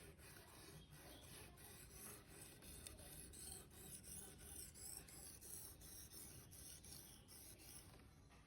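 Faint rasping strokes of a Victorinox knife blade drawn repeatedly across a sharpener, in a steady rhythm.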